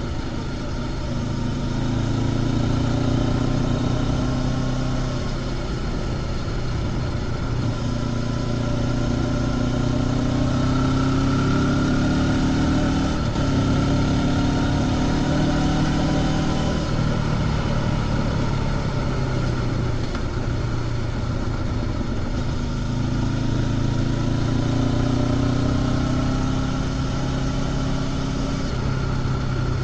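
Honda CB500X parallel-twin engine with stock exhaust, heard on board while riding. The engine note rises and falls several times as the bike accelerates and eases off, with a brief dip about halfway through, over a steady rush of noise.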